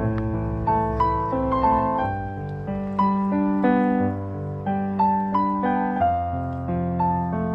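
Slow, gentle solo piano music, single melody notes struck a little under a second apart over held bass notes.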